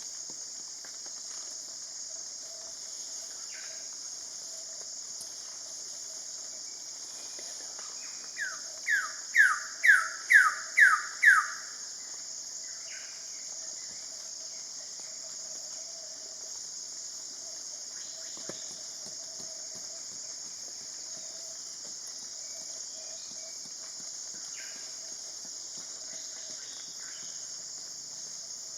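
Wilson's bird of paradise calling: a run of about seven loud down-slurred notes, about two a second, growing louder through the series. A steady high insect drone runs underneath.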